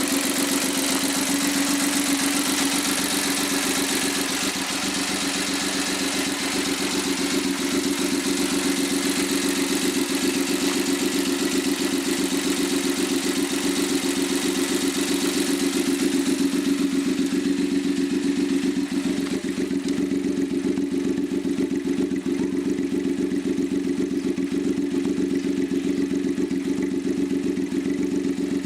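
Suzuki K6A 660 cc three-cylinder engine, a bare engine without its turbo, running steadily on a test stand, fully warmed up after hours of running. A high hiss above the engine note fades out about two-thirds of the way through.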